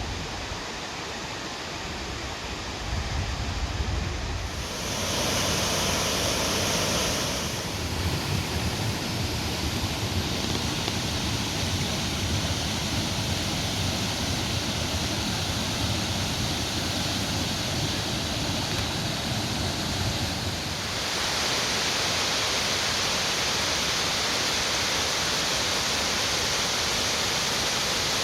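Waterfall: a steady rush of falling water. Its tone and loudness shift a few times, around four and seven seconds in and again about three-quarters of the way through.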